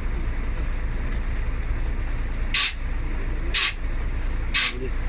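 Steady low rumble of an idling heavy vehicle, and from about halfway in four short, loud hisses of compressed air, evenly spaced about a second apart.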